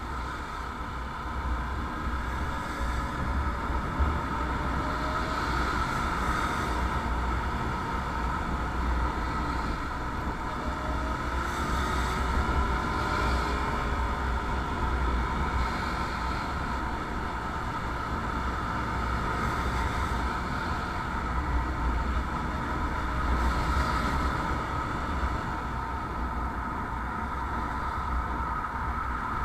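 A motorcycle being ridden: a steady engine drone under a dense low rush of wind on the microphone, swelling and easing a little now and then.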